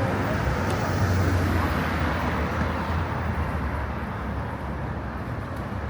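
City street traffic: a steady hum of vehicle engines and tyres, a low engine drone swelling about a second in, then easing slightly.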